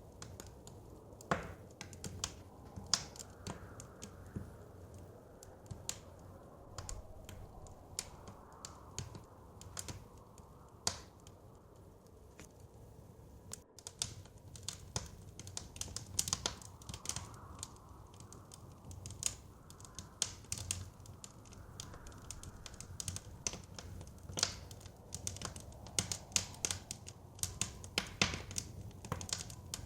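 Wood fire crackling, with irregular sharp pops and snaps that come thicker in the second half. Beneath it, a soft low wind of a snowstorm rises and falls.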